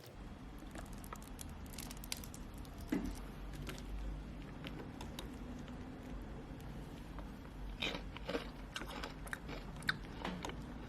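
Close-up eating sounds: biting and chewing crunchy food, with scattered sharp crunches that cluster shortly after the start and again toward the end, over a low steady hum.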